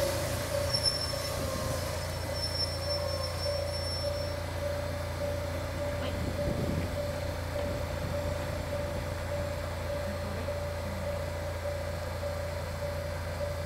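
Train running noise: a steady low hum under one steady whine, with faint high wheel squeals in the first few seconds.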